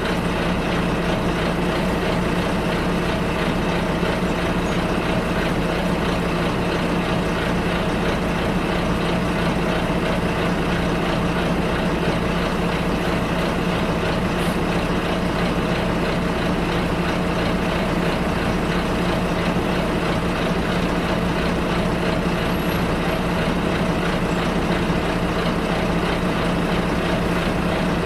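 Bus engine and road noise heard from inside the passenger cabin during a ride: a steady, even drone with a constant low hum.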